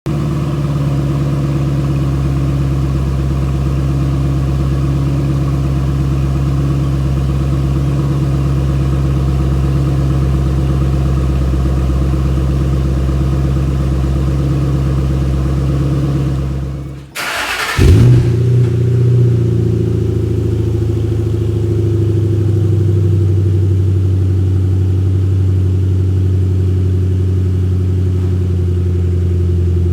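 2005 Ford Mustang GT's 4.6-litre V8 idling steadily on its stock exhaust after a cold start. About seventeen seconds in there is a break, and the engine starts with a loud flare on a Borla S-Type axle-back exhaust. It then settles into a steady idle with a different exhaust note.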